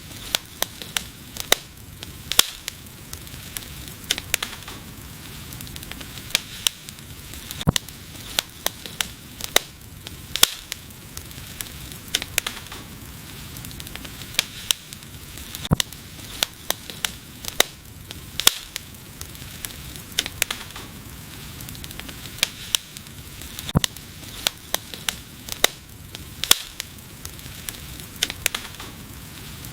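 Wood fire crackling: irregular sharp pops and snaps, several a second with a few much louder ones, over a steady soft hiss.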